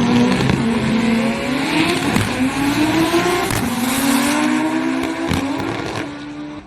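Front-wheel-drive drag race cars accelerating hard down the strip. The engine pitch climbs, drops back with each upshift and climbs again, about three times, and the sound fades as the cars pull away near the end.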